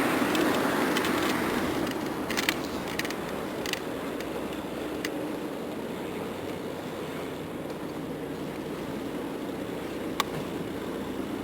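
Steady rushing noise of riding a bicycle along a city street, a mix of air rushing past and tyre noise, louder for the first couple of seconds, with a few sharp clicks scattered through.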